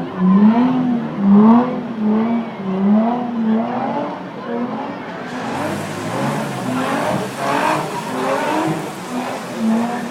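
Drift car's engine revving up and down over and over with the throttle as the car drifts, with tyres squealing, loudest about seven seconds in.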